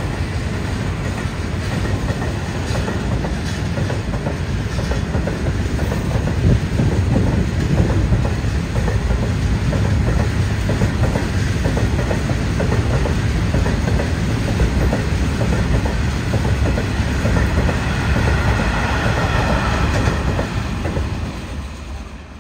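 A train passing close by, its wheels clattering steadily on the rails, the noise dying away near the end.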